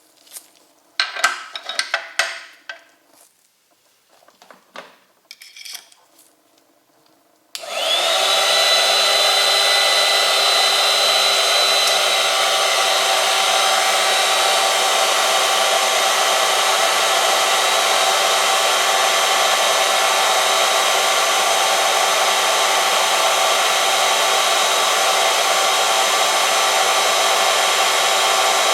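A few seconds of light clicks and clatter, then about seven seconds in the oil-film test machine's motor starts with a brief rising whine and runs steadily and loudly, as the tester spins its sample in the heated oil under test.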